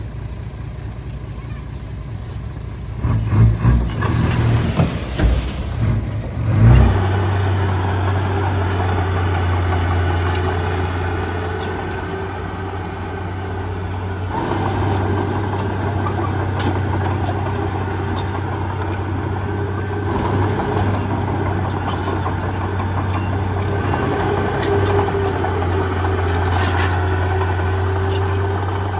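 Heavy diesel engine of construction machinery running, with a few seconds of irregular loud surges, then settling into a louder, steady hum from about seven seconds in.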